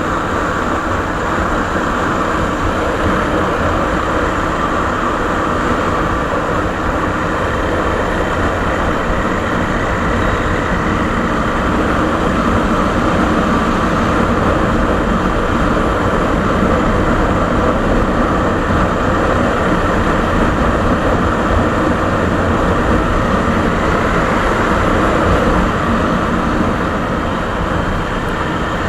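Suzuki Savage's 652 cc single-cylinder four-stroke engine running steadily through its original exhaust tip, a loud continuous rumble that swells slightly through the middle and eases a little near the end.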